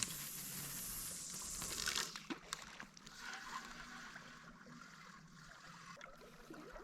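Water sloshing and trickling, louder over the first two seconds, with a few small clicks.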